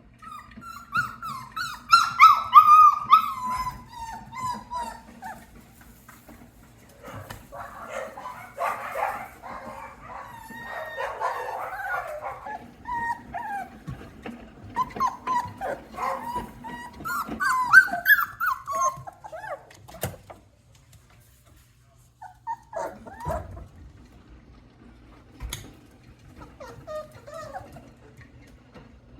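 Australian Shepherd puppies whining and yipping in high, falling cries, with a noisier stretch of whimpering and barking through the middle, over a steady low hum.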